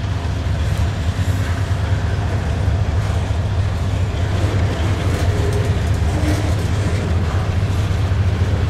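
Double-stack intermodal container train rolling past close by: a steady, loud low rumble of steel wheels on rail and cars rattling.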